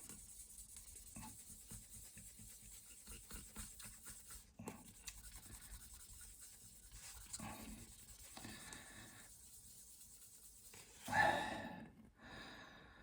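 Fine-grit (1800) sanding pad rubbed by hand over a briar pipe bowl in faint, quick, scratchy strokes, flattening a hardened glue fill. A louder breathy puff about eleven seconds in.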